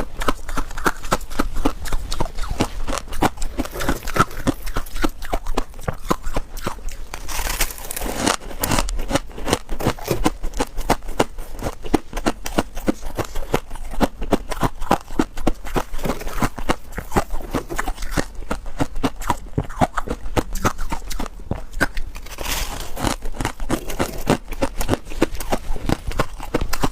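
Close-up crunching of freezer frost being chewed: a dense, unbroken run of sharp crunches and crackles.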